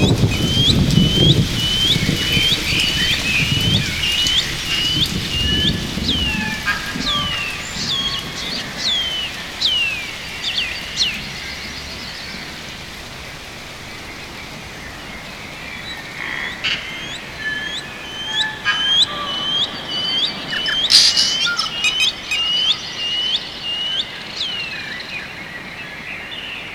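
Birds chirping in quick runs of short, sliding notes, two or three a second, with a quieter spell midway. A low rumble of thunder and rain fades out in the first few seconds, and a sharp click comes about 21 seconds in.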